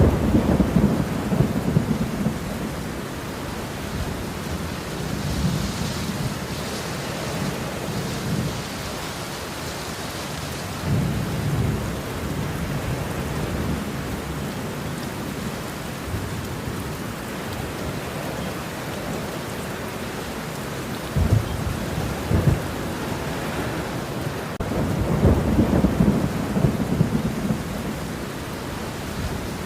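Steady heavy rain with thunder rumbling again and again, the rumbles swelling and fading several times, the strongest near the end.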